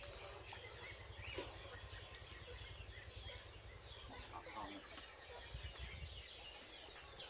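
Faint background birdsong: many short, scattered chirps and some clucking, over a low rumble.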